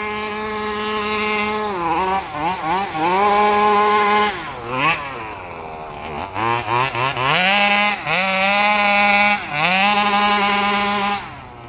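32cc two-stroke gas engine of a 1/5-scale FG RC truck revving hard while the knobby tires spin: held at high revs, then dropping off and climbing back up several times, with a few quick blips about two seconds in.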